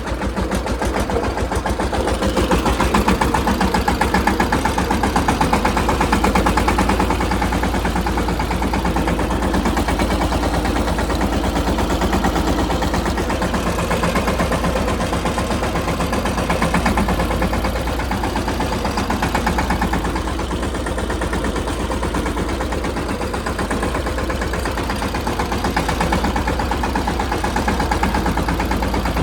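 Mahindra Yuvraj 215 tractor's single-cylinder diesel engine running steadily, with a rapid, even chugging beat.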